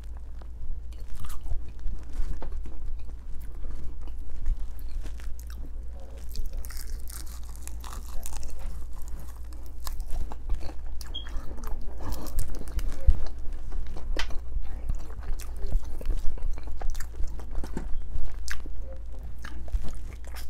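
A person biting and chewing crunchy fried chicken wings and fries, with many short crunches, over a steady low hum.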